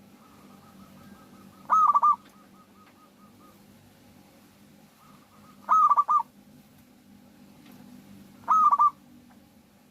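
Zebra dove (perkutut) singing: three short cooing phrases of a few quick notes each, a few seconds apart, with a fainter run of soft repeated notes between them.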